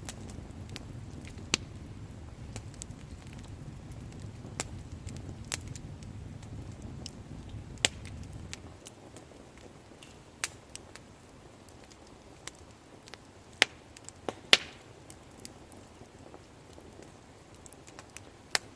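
Wood fire crackling, with sharp pops at irregular intervals. The loudest pops come near the end. A low rumble underneath fades out about nine seconds in.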